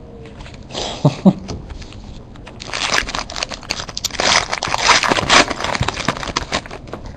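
Crinkling, crunching and scraping of a trading-card pack wrapper and the cards being handled. There is a short burst about a second in, then a longer stretch of crackling from under three seconds in until near the end.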